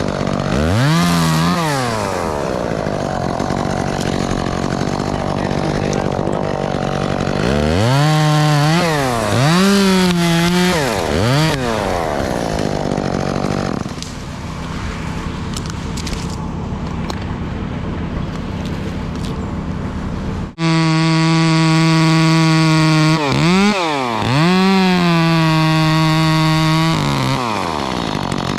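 Gas chainsaw revving up and down repeatedly while cutting. After a brief break about two-thirds of the way through, it is held at steady full throttle for several seconds, then winds down.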